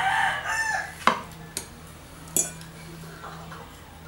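A rooster crows, its call ending about a second in. Then a knife knocks sharply against a glass cutting board three times while slicing boiled pork.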